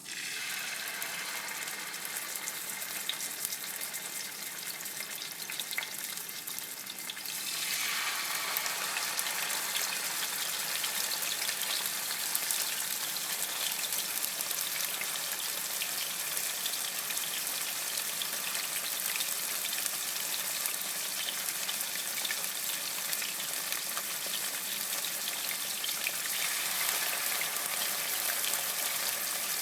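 Cornish hen pieces in masala marinade shallow-frying in hot oil, a steady sizzle full of fine crackles and spatters. The sizzle starts as the pieces go into the pan and grows louder about seven seconds in, as more pieces are laid in.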